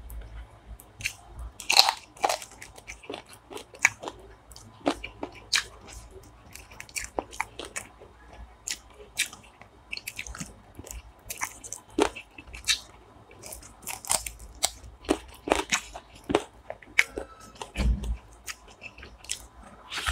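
A man chewing and biting into chicken feet curry and rice close to the microphone: irregular sharp crunches and wet mouth clicks, several a second.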